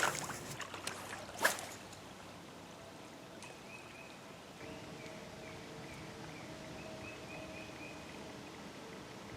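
Creek water running steadily, with a short sharp splash-like burst about a second and a half in and faint high chirping notes later on.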